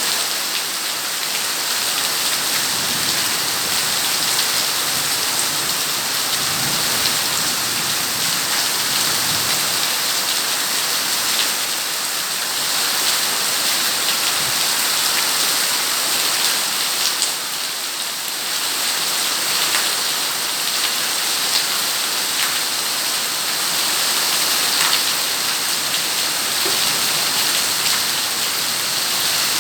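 Steady rain falling: an even, continuous hiss of drops, with scattered individual drop ticks standing out.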